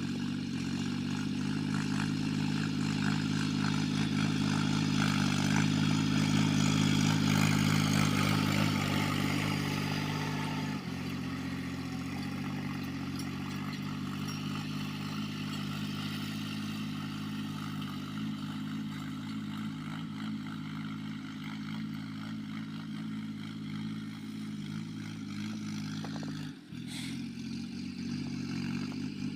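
Farm tractor's engine running steadily as it ploughs a field. It is loudest for the first ten seconds or so, then eases a little, with a brief dip near the end.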